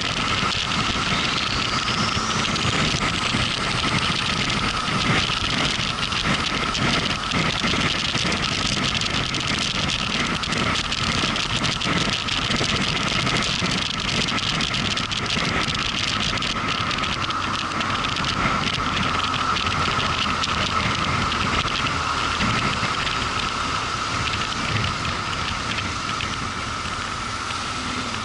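Motorcycle under way: steady wind and road noise with the engine running beneath it, and a faint rising whine early on.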